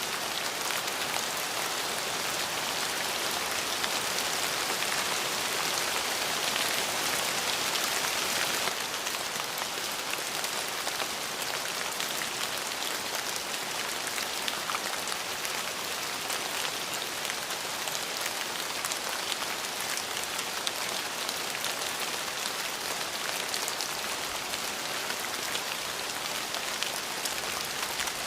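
Steady rain falling, a dense hiss of drops with scattered individual drop patters; it eases slightly about eight seconds in.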